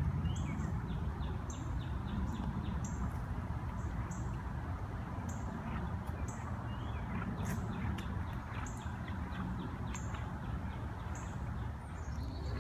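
A bird calling with short, high chirps repeated about once a second over a steady low outdoor rumble.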